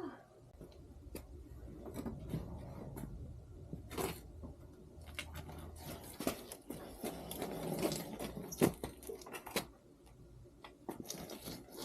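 Irregular light scraping, clicking and knocking of hands working at a motorcycle and its kickstand, with a few sharper clicks about four and nine seconds in.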